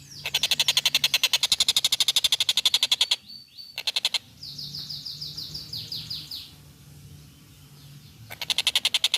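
Tengkek buto kingfisher calling with a long, very fast, loud rattling chatter. It follows with a short rattle, then a run of quick downslurred notes, and breaks into the rattle again near the end.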